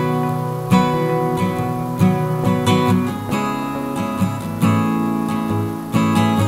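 Background music: acoustic guitar strumming chords at a steady, unhurried pace.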